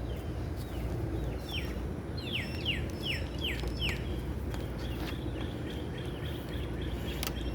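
Wild songbirds singing: one gives a quick run of about six falling notes a couple of seconds in, while another repeats short chirps throughout, over a steady low outdoor rumble. A light click comes near the end.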